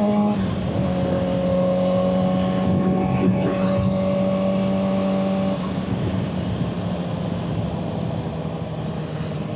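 Suzuki GSX-R600 inline-four with an M4 exhaust running at a steady engine speed while riding, with wind noise. Its note steps down about half a second in and again about halfway through, as the rider shifts or eases off the throttle.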